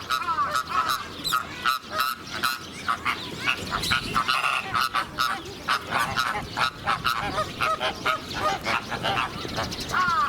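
A flock of American flamingos honking and gabbling, many short, nasal, goose-like calls overlapping without a break.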